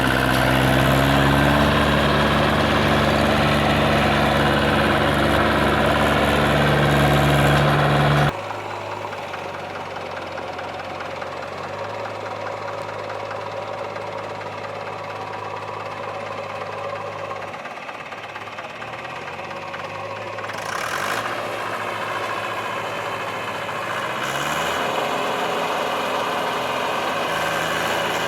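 JCB 3DX backhoe loader's diesel engine running with a knocking clatter. It runs loud and high at first, its pitch rising slightly, then drops abruptly to a quieter, lower idle about eight seconds in, and picks up again near the end.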